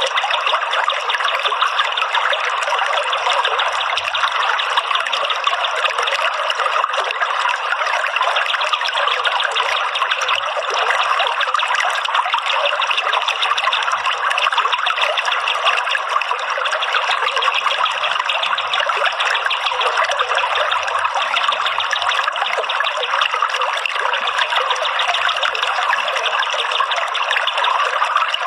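Running water trickling steadily, a continuous flowing-water sound with no breaks.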